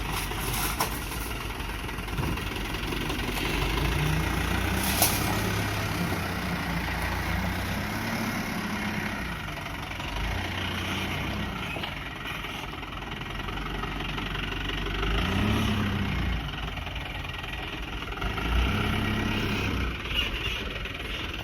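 Diesel engine of a sand-laden dump truck working under load, revving up and falling back several times, with a couple of sharp knocks along the way.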